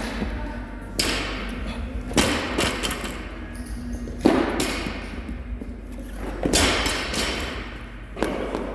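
Loaded barbells with bumper plates dropped onto the gym floor after muscle clean attempts: five heavy thuds spaced a second or two apart, each trailing off in echo.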